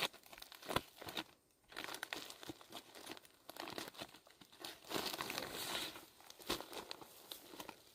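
Irregular crinkling and rustling of something being handled, with many small snaps and crackles.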